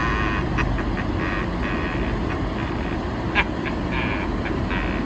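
Steady road and engine rumble inside a vehicle driving through snow. Short, high, squeaky chirps come every half second or so, with one sharp click about three and a half seconds in.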